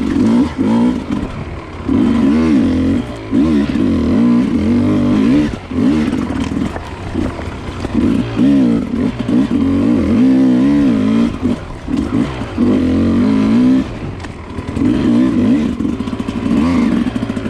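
Dirt bike engine heard from on board, revving up and falling back again and again as the throttle is opened and shut over rough enduro trail.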